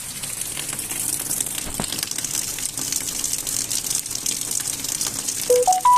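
Light rain shower falling: a steady hiss of drops with fine, uneven ticks, and a single knock about two seconds in. Near the end a few short whistled notes step up in pitch.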